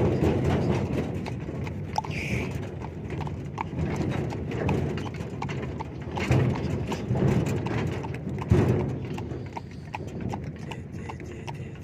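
Hooves clip-clopping at a steady walking pace on a hard track, the hoofbeats evenly spaced over a low rumble.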